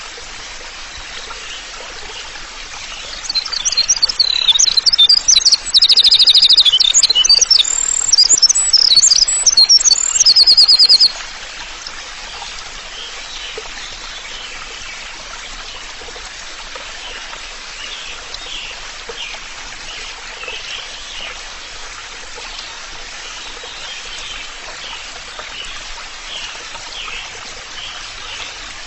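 A songbird singing loudly in fast chattering phrases and rapid trills from about three seconds in until about eleven seconds, over a steady trickling stream; fainter chirps go on over the water afterwards.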